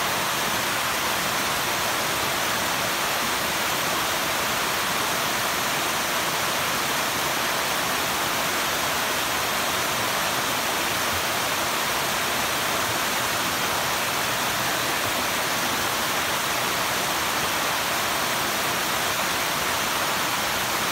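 Water of a mountain valley stream rushing in a steady, unbroken hiss.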